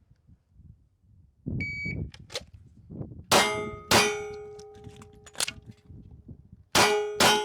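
A shot timer beeps once, then a pistol fires two quick shots, a single clack comes during the magazine reload, and two more quick shots follow. Each shot leaves a ringing tail.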